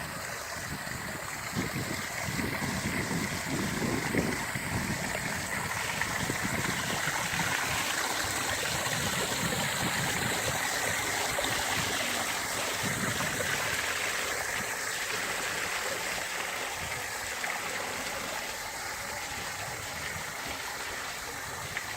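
Artificial waterfall with water pouring and splashing steadily, with uneven lower splashes in the first few seconds and a little louder in the middle.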